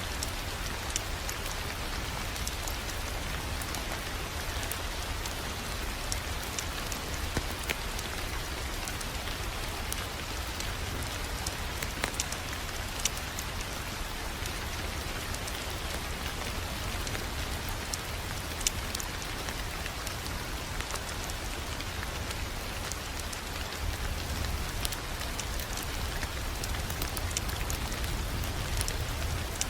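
Wood fire crackling in a fireplace: a steady hiss and low rumble with scattered sharp pops.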